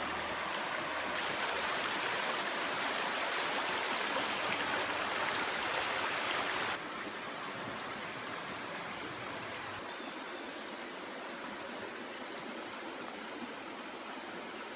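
Steady outdoor rushing noise that drops suddenly in level and loses its hiss about seven seconds in, then carries on more softly.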